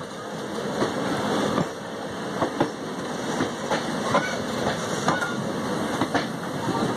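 Passenger train coaches rolling on the track: a steady rumble broken by irregular sharp clicks of the wheels over the rails, about one or two a second.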